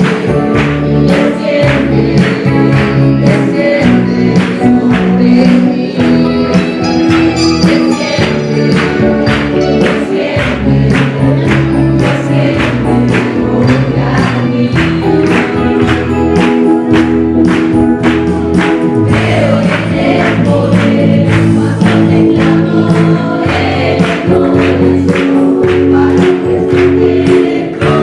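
Christian worship music: a choir singing in Spanish over a band with a steady beat.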